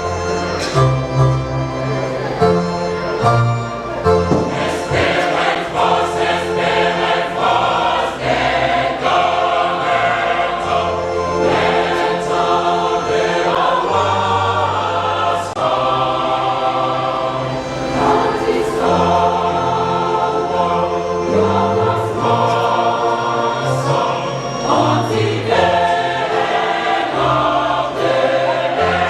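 Choir singing a gospel hymn over instrumental accompaniment with a steady bass line.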